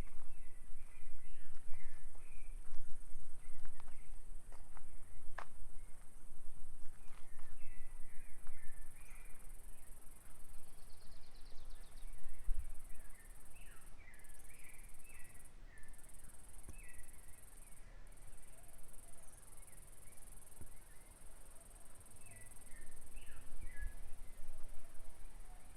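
A bird singing repeated short warbling phrases over a steady, high insect drone, with a few faint clicks.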